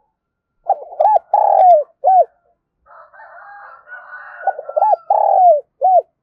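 Spotted dove cooing: two calls, each a couple of short coos, one longer drawn-out coo that falls in pitch, and a short final coo.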